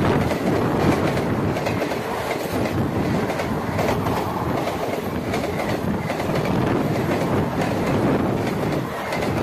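A train running on the line by the tunnel: a steady rumble with a continuous clatter of wheels on the rails.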